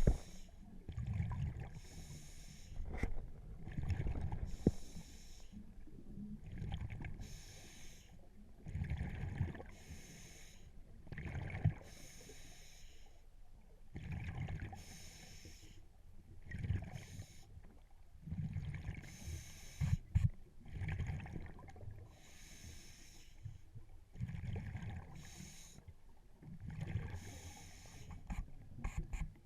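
Scuba diver breathing through a regulator underwater: a hiss on each inhale alternating with a low bubbling rumble on each exhale, about one breath every two to three seconds.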